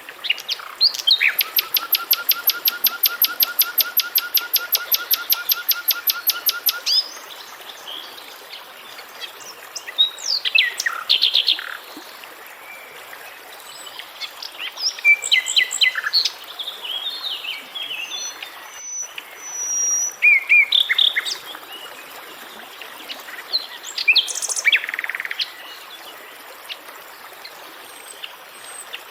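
Wild birds singing and calling. A long, rapid trill of evenly repeated notes starts about a second in and lasts about six seconds, followed by scattered short chirps and calls.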